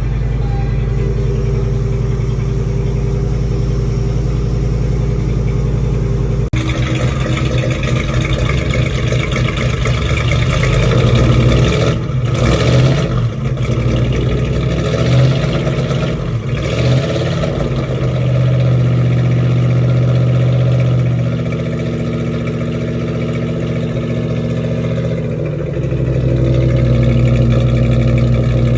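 Cammed 390 FE V8 in a 1965 Ford F100, running through Black Widow Venom exhausts shortly after a cold start following four and a half months of sitting. It runs steadily at first, is revved in a few surges through the middle, and then settles back to a steady run that grows louder near the end.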